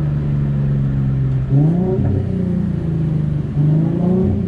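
Single-turbo Infiniti G37's V6 engine running steadily, rising in pitch twice as the throttle is pressed, about a second and a half in and again near the end, then settling back.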